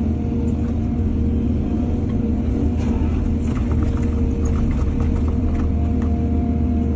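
Excavator's diesel engine running steadily, with a scattering of light knocks and rattles in the middle.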